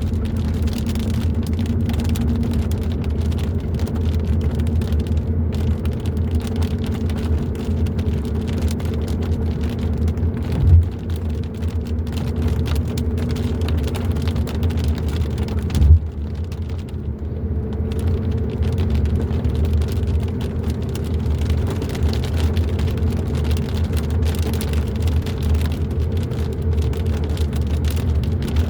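Hyundai i30 N Line driving along a road: a steady engine drone over tyre and road rumble. Two short low thumps come at about 11 and 16 seconds in.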